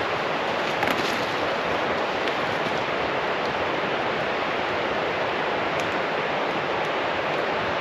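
A steady rushing noise fills the background, with a few faint, sharp crackles from the campfire.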